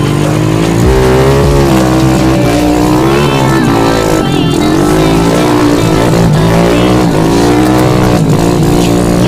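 Motorcycle engine running hard, its revs rising and falling again and again.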